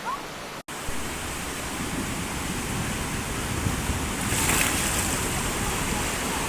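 Steady rush of flowing floodwater, with wind noise on the microphone. The sound cuts out for an instant just over half a second in and resumes louder, with a brief sharper hiss about four and a half seconds in.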